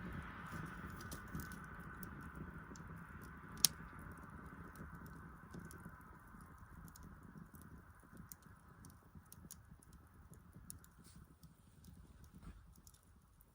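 Wood fire crackling, scattered small pops with one sharp pop about four seconds in. A faint hiss and low rumble under it fade away over the first half.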